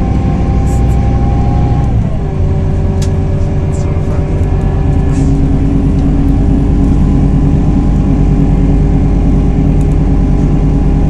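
Scania 320 hp diesel engine of a Scania Irizar i4 bus, heard from on board, pulling steadily. About two seconds in, its pitch drops sharply as the ZF six-speed automatic gearbox shifts up, then the engine pulls on at a steady pitch.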